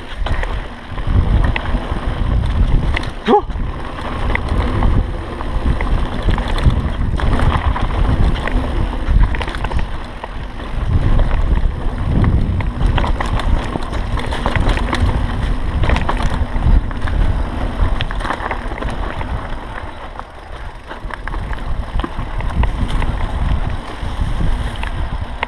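Wind buffeting the microphone, with the rattle and knocks of a mountain bike riding fast over rough singletrack.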